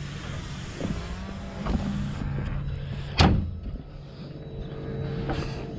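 John Deere 650K crawler dozer's diesel engine running steadily, with one sharp knock about three seconds in.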